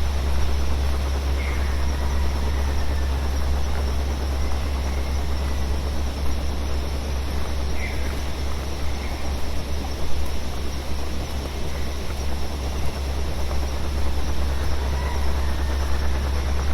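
Steady synthesized noise from a modular synth: a loud, constant low rumble under an even hiss, mixed with a forest field recording in which a bird chirps faintly a few times.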